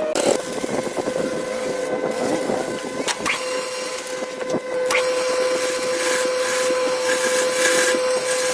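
A workshop machine's motor running steadily with a constant whine over a noisy, scraping background, with a few sharp clicks.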